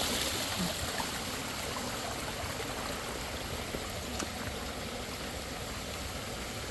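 Water pouring steadily down through a Bakki shower pond filter and splashing, with a few small drip-like ticks.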